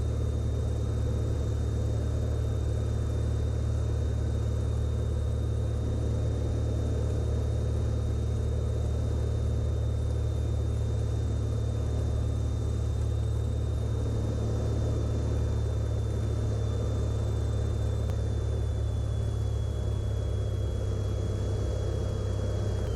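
Light single-engine piston airplane's engine and propeller droning steadily at reduced power on the landing approach, throttle pulled back. A faint thin high whine runs over the drone and dips slightly in pitch near the end.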